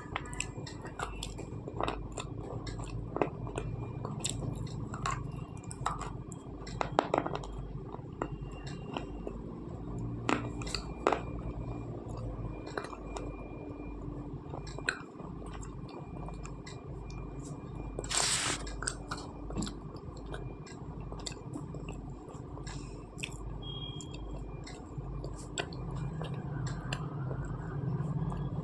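Close-up chewing of slate pencils coated in a red paste: a run of irregular sharp crunches and clicks as the brittle clay breaks between the teeth. There is one longer, louder noise a little past the middle.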